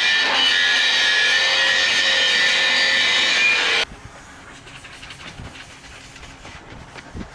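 Loud steady hissing with a high whine from a metalworking tool in a truck repair workshop, cutting off abruptly about four seconds in. After that there is only quieter workshop background with faint clicks and a small knock near the end.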